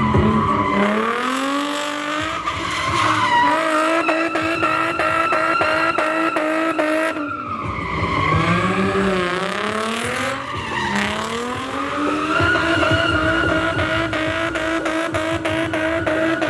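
Drift car engine revving hard and holding near the rev limiter, stuttering about five times a second, with tyre squeal from the slide. The revs drop about seven seconds in, then climb back up and stutter again.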